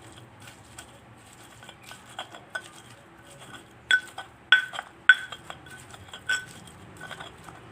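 A metal spoon clinking against a dish: a run of sharp, ringing clinks, thickest from about four to six and a half seconds in.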